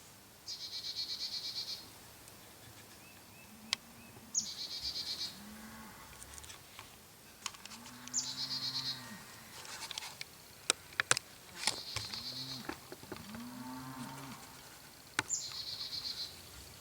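A songbird repeating a short, fast, high trill five times, each opening with a quick downward slur, about every four seconds. Short low rise-and-fall calls sound in between, and a few sharp clicks come about eleven seconds in.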